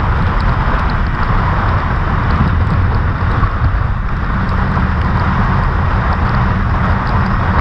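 Kawasaki Ninja 400's parallel-twin engine running at a steady pace while riding, under a heavy, even rush of wind over the microphone.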